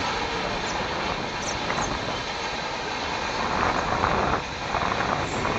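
Steady rushing of fast-flowing Bhima river floodwater, a continuous even roar that swells slightly past the middle.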